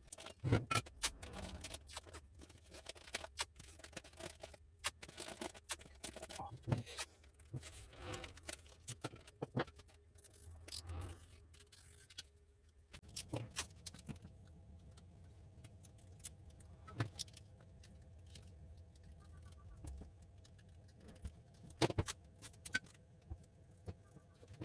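Hand tools and metal engine parts clinking, knocking and scraping in irregular single strikes during engine overhaul work, with a faint steady hum from about halfway.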